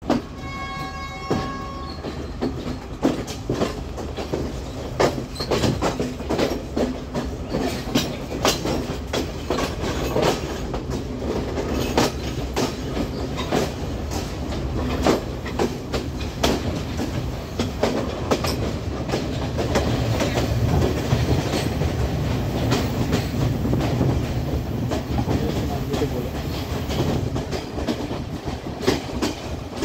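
Class S12 diesel multiple unit running along the line, with a steady rumble and irregular clicks from the wheels over rail joints. The rumble swells somewhat about two-thirds of the way through. A brief pitched tone sounds at the very start.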